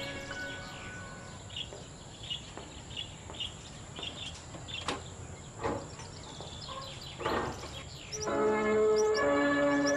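A small caged bird chirping in short high notes, about two a second, with a few sharp knocks in between; about eight seconds in, music starts and becomes the loudest sound.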